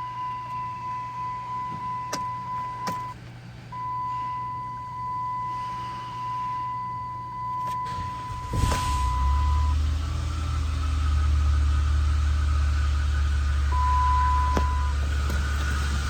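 A steady high electronic warning tone sounds from the dash of a 2010 Chrysler Town & Country, with gaps and a few clicks. Then the van's 3.8-litre V6 cranks briefly, catches about halfway through, and settles into a steady idle. The warning tone sounds once more, briefly, over the idle.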